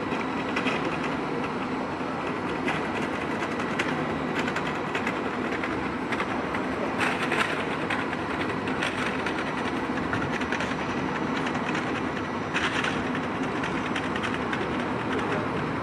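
Train moving through the station: a steady rumble of wheels on rails with rapid clicking from the track, and two short hisses about seven and twelve and a half seconds in.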